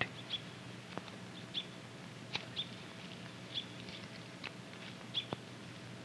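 Faint ambience of about five brief, high chirps, a bird calling at irregular intervals, with a couple of soft clicks over a low steady hum.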